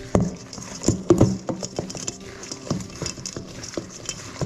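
Shrimp being mixed with seasoning and flour in a bowl: irregular light knocks and taps, several a second, loudest about a second in.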